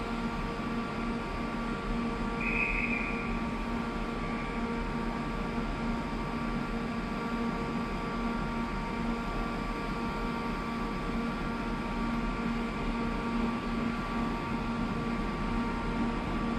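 A stationary train running steadily: a constant hum made of several steady tones over an even noise. A short high beep sounds about two and a half seconds in, with a fainter one about two seconds later.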